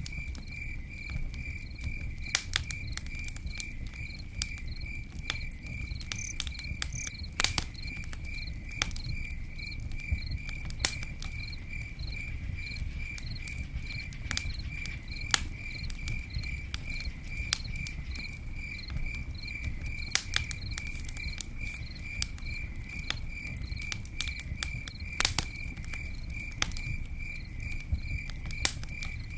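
Campfire crackling, with sharp pops scattered irregularly over a low rumble. Behind it a cricket chirps steadily, a few chirps a second.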